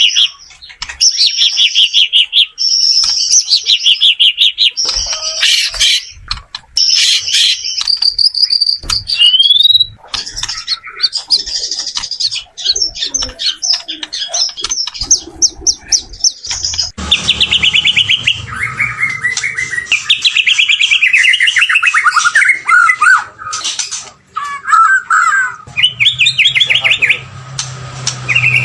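White-rumped shama singing: a fast, varied song of rapid trills, whistles and chattering phrases, with a low hum behind it in the last third.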